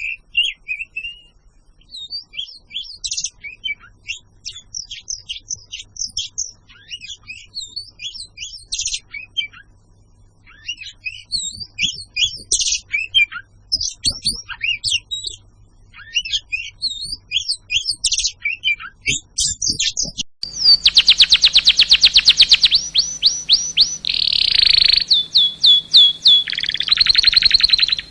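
Songbird chirping and trilling in quick, varied high phrases. About twenty seconds in, a louder bird cuts in with a fast, steady run of repeated high whistled notes, each sliding down in pitch.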